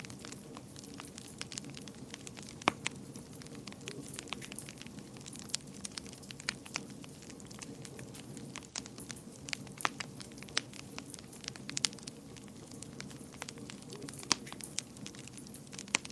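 Wood fire burning in a fireplace: crackling and popping at irregular intervals over a steady low rush of flame. A few pops are much louder than the rest, around three seconds in and again near ten and fourteen seconds.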